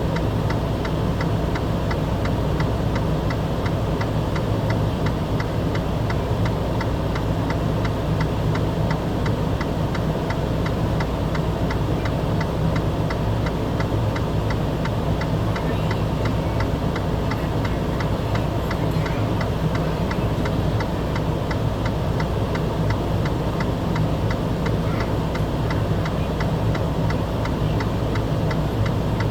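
A steady low engine hum with a fast, regular ticking over it, unchanging throughout.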